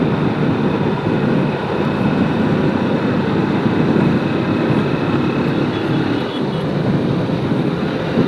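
Steady wind noise rushing over a helmet-mounted microphone on a slow-moving motorcycle, mostly low in pitch, with the bike and road traffic running underneath.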